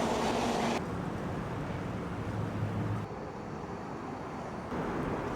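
Steady low rumble of vehicle and traffic ambience, cut together from several short clips: the sound changes abruptly about a second in, about three seconds in and near the end.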